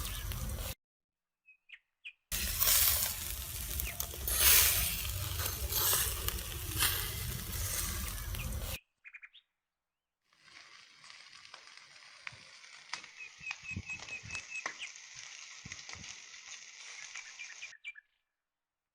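Meat sizzling and crackling on a charcoal grill in two loud stretches, each cut off abruptly. After a gap comes a quieter outdoor stretch with a bird chirping a quick run of repeated notes and scattered small clicks.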